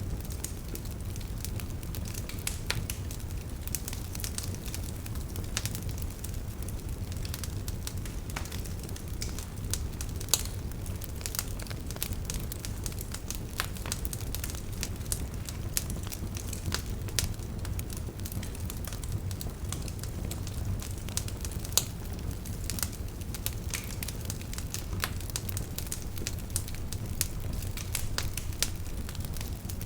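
Wood fire burning with a steady low rumble and frequent irregular crackles and small pops.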